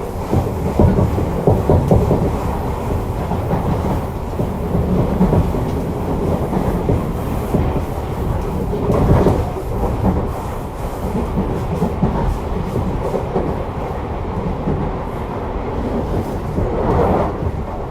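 Tobu 50050-series electric train running at speed, heard from inside the car: a steady rumble of wheels on rail, swelling briefly around the middle and again near the end.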